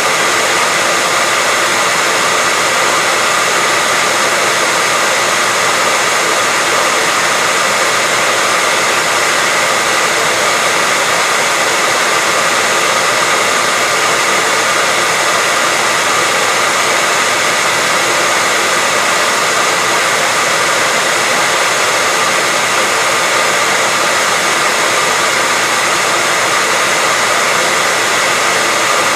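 Hairdryer running steadily: an even rushing blow of air with a faint whine from the motor.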